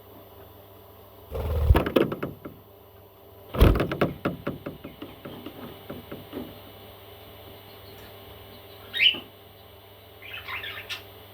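Two bursts of clattering knocks a couple of seconds apart, the loudest things heard, then a single short rising chirp and a raspy call from a baby parrot near the end.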